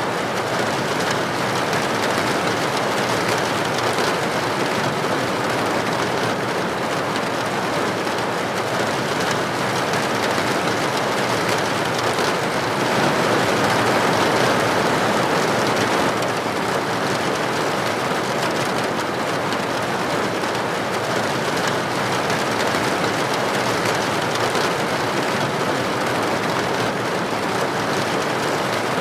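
Steady heavy rain, an even hiss of falling rain without pauses, swelling slightly about halfway through.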